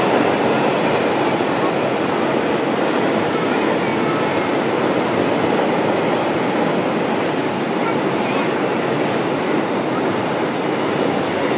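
Inside an E233-7000 series electric train of the Saikyo Line, recorded in motor car MoHa E233-7433, as it runs: loud, steady running noise of the car on the rails.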